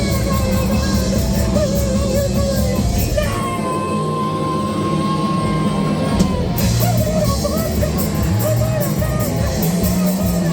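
Live rock band playing loud, with yelled vocals, guitar and drums. About three seconds in the drums and low end drop away under one held high note for about three seconds, then the full band comes back in with a crash.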